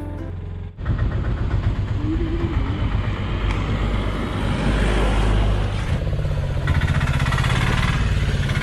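A motor vehicle engine running close by, a rough, pulsing sound that starts abruptly about a second in after a short bit of background music.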